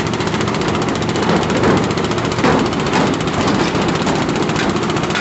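Construction machinery engine running steadily with a rapid rattling pulse, while concrete is being mixed and placed; a few brief louder scraping sounds come between about one and three seconds in.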